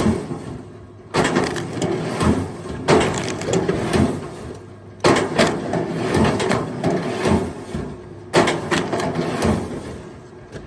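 Firewood logs clattering and knocking against each other in repeated bursts, one every two to three seconds, each starting suddenly and dying away.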